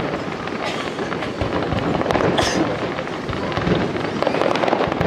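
Fireworks display going off in a dense, continuous barrage of bangs and crackling, with a brief hiss about halfway through.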